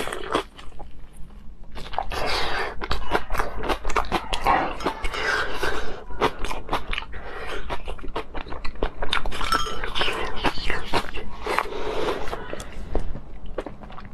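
Close-miked eating: biting into and chewing a sheep's stomach stuffed with sheep brain, dipped in sauce. Continuous crunching and chewing, full of rapid clicky, smacking mouth sounds.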